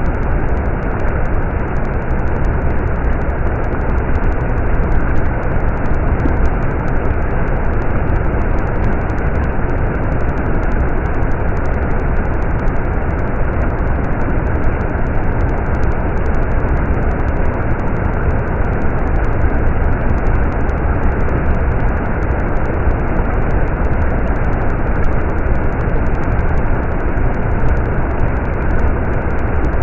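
Stream water running steadily: a dense, even rushing with a deep rumble underneath.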